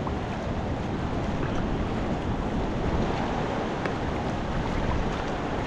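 Steady rush of whitewater in a river rapid, with wind buffeting the microphone.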